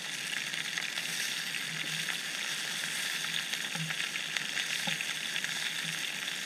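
Chicken wings and sliced potatoes sizzling steadily as they fry in oil in a small pan over a campfire, with fine crackling throughout. A few soft knocks of a utensil against the pan come around the middle.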